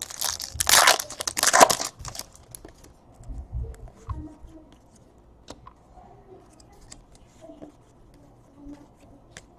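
A trading card pack wrapper torn open and crinkled, loudest in the first two seconds, then faint clicks and rustles of cards being handled.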